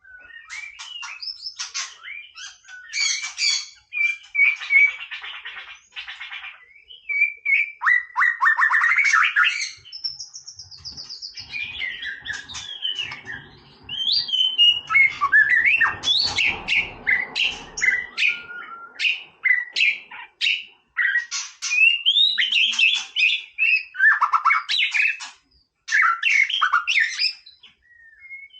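White-rumped shama singing a long, varied song of clear whistles, quick trills and harsh buzzy rattles, in phrases broken by short pauses.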